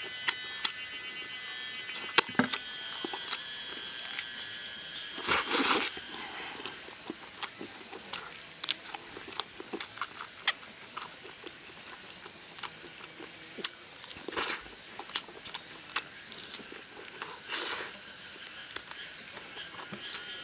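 Close-up eating sounds of a person gnawing braised duck meat off the bone: wet chewing with many small smacking clicks, and two louder breathy bursts, about five and seventeen seconds in.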